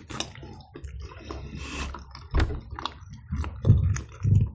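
Close-miked chewing of a soft cheese-filled dumpling (varenik) with sour cream: irregular wet clicks and smacks of the mouth, getting a little louder near the end.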